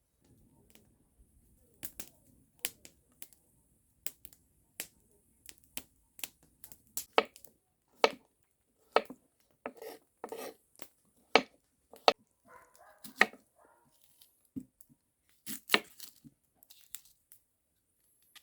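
Knife chopping food on a cutting board: a run of sharp, irregular knocks about one every half second to a second, some louder than others.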